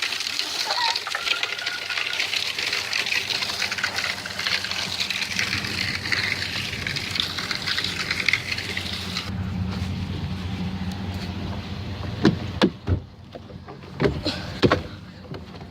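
Wind and road noise in the open bed of a moving pickup truck: a loud steady rush that cuts off suddenly about nine seconds in, leaving a low engine rumble. Several sharp knocks follow near the end.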